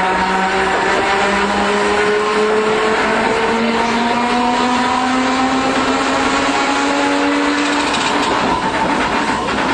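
Older streetcar running, heard from inside the car, with a motor-and-gear whine that rises slowly in pitch as it gathers speed, over steady wheel and rail rumble. Near the end the whine fades and a few knocks from the wheels come through.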